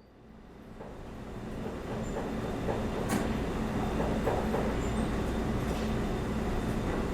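A steady low rumble with a faint hum fades in from silence over about two seconds, with a few short clicks and squeaks over it.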